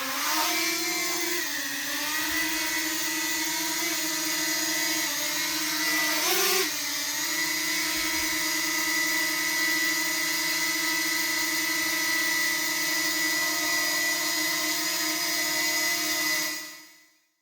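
Small DJI Mini quadcopter drone's propellers spinning up, then hovering with a steady buzzing whine. The pitch dips and rises briefly about six seconds in, and the sound fades out shortly before the end.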